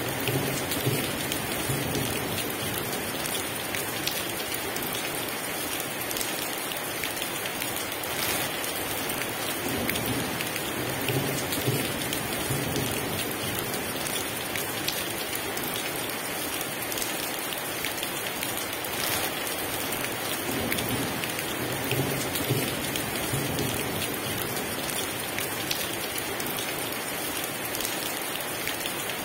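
Heavy rain falling steadily, with low rumbles of thunder rolling in a few times, roughly every ten seconds.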